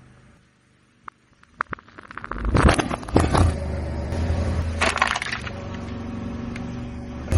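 A few sharp clicks, then loud crunching and cracking over a steady low machine-like hum as something is crushed, with the heaviest crunches about two and a half seconds in, near five seconds, and at the end.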